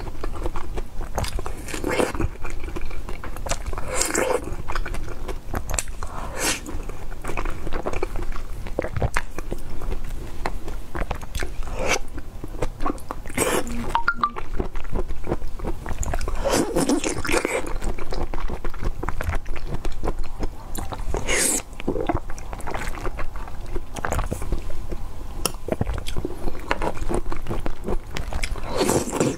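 A person biting into and chewing food close to a clip-on microphone, in irregular bites and chews.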